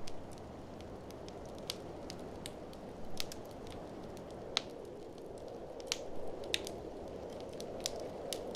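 Fireplace fire crackling, with frequent sharp pops at irregular intervals, over a steady low rush of blizzard wind.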